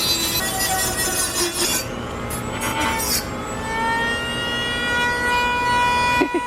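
A small high-speed power cutting tool cutting through a thin metal pot: gritty grinding at first, then a steady high whine that climbs slightly as it runs.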